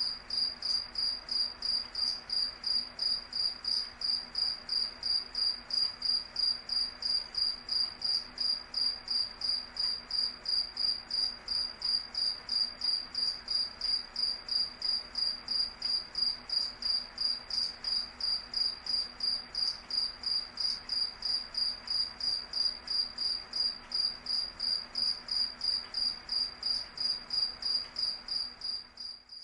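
A cricket chirping steadily in a regular rhythm of high, pulsed chirps, a few each second, over a faint background hiss. The chirping cuts off right at the end.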